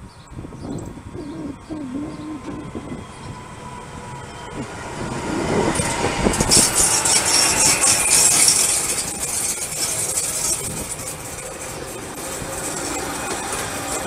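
Electric multiple unit of the Cremallera de Núria rack railway passing close by. The wheels' rumble and clatter on the track grow as it approaches, are loudest about six to nine seconds in as the cars go past, then ease off.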